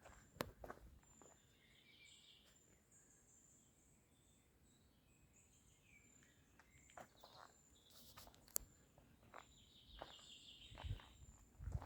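Faint outdoor ambience with scattered short bird chirps and a few sharp clicks, with some low thumps near the end.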